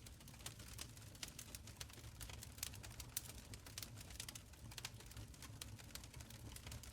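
Wood fire crackling in a stone fireplace: irregular sharp pops and snaps over a soft low rumble of the flames.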